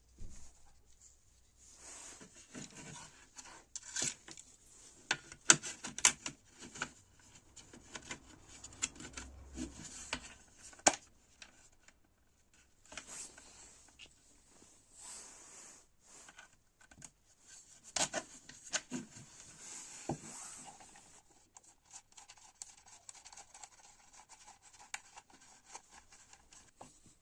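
Intermittent rubbing and scraping with scattered sharp clicks and knocks, as of parts being handled and worked on by hand; no motor is running.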